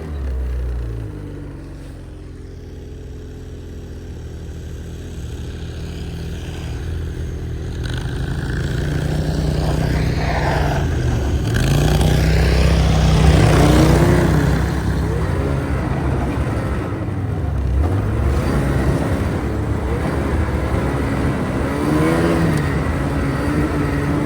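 A vehicle engine running under way, its note rising and falling as the revs change, growing louder over the first dozen seconds and then holding steady.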